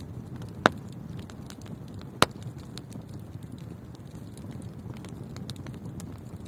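Wood fire in a fireplace burning with a steady low rumble and scattered small crackles, with two loud sharp pops, one under a second in and one about two seconds in.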